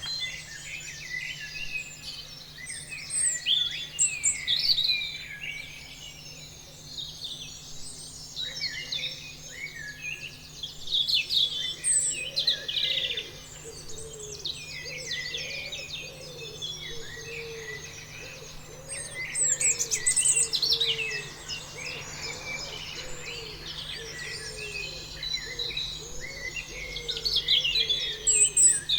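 Several songbirds chirping and singing at once, a dense chorus of quick trills and whistles that swells louder in several spells. A lower call repeats about twice a second underneath, over a faint steady hum.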